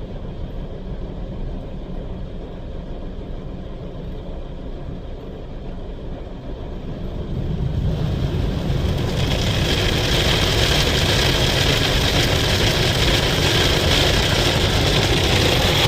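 Istobal M'Wash 3 rollover car wash working over the car, heard from inside the cabin: a steady low rumble of the machinery, then about halfway through a louder hissing wash noise of brushes and water against the car that keeps going.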